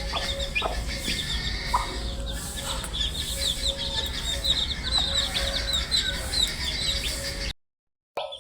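A brood of baby chicks peeping, many short high falling chirps overlapping in a dense chorus, over a steady low hum. The sound cuts out to silence for about half a second near the end.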